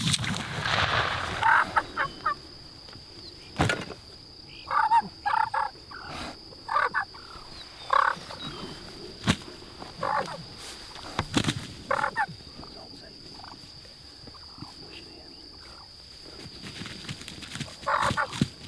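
Osceola wild turkeys calling close by, in short repeated bursts spaced a second or a few seconds apart, with a few sharp clicks among them.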